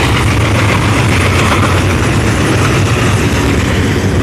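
WNYP freight train passing close by: a loud, steady rumble of diesel engines and rolling wheels on the rails.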